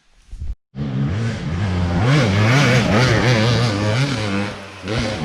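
An off-road vehicle engine revving hard under load on a hill climb, its pitch rising and falling with the throttle. It comes in abruptly after a short gap about half a second in and eases off slightly near the end.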